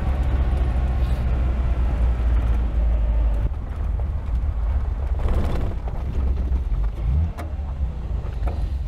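1967 Austin-Healey 3000's straight-six engine running at low speed and light throttle as the open car rolls slowly along a dirt driveway, a steady low rumble.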